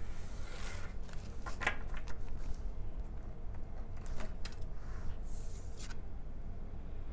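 Tarot cards being shuffled and handled: brief papery rustles and scattered light clicks and slaps of cards, over a steady low hum.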